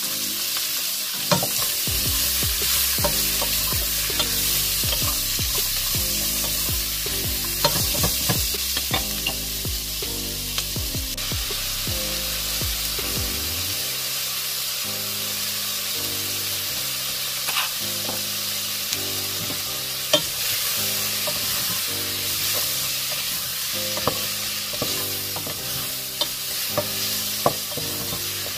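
Sliced bell peppers and red onion sizzling in oil in a pot, with a spatula clicking and scraping against the pot now and then as they are stirred.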